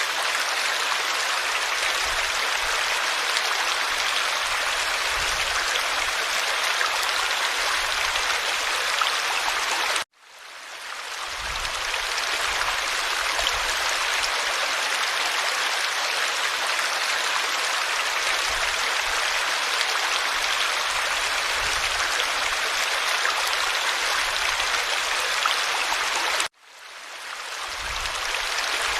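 Forest stream flowing and babbling in a steady, even rush. Twice the sound cuts out suddenly and then fades back in over about a second, once about a third of the way in and again near the end.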